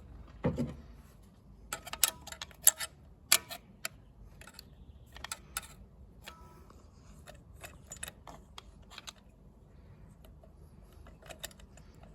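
Scattered sharp metallic clicks and clinks of hand tools on the parts of a tractor's diesel injection pump being dismantled, thickest in a cluster about two to three and a half seconds in, then sparser.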